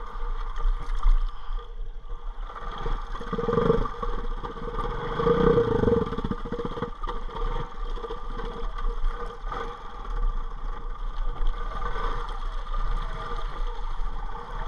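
Motorbike engine running steadily as the bike is walked through deep creek water, with a couple of louder surges about four and six seconds in.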